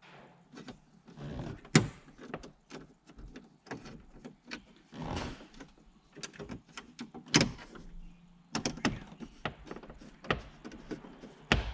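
Hands working in a car dashboard: irregular clicks, taps and knocks of tools and plastic trim, with some rustling. Sharper knocks come about two seconds in, about seven seconds in and near the end.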